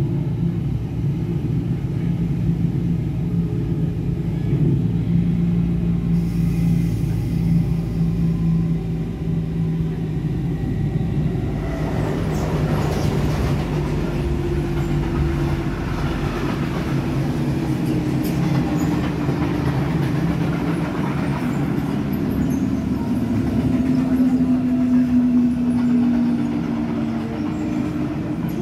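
S-Bahn electric train running at speed, heard from inside the carriage: a steady running noise of wheels on track with a low hum whose pitch shifts slowly.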